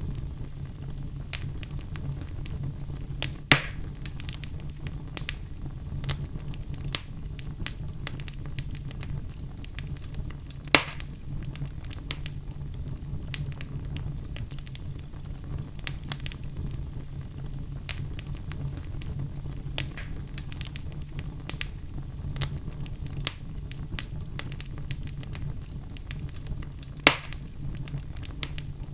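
Wood logs burning in a fireplace, crackling with frequent small pops and three louder snaps, over a steady low rumble.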